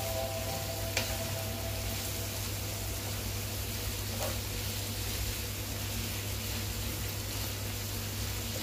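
Beef strips with onion and garlic sizzling steadily in a frying pan while being stirred with a wooden spatula, with a light click about a second in.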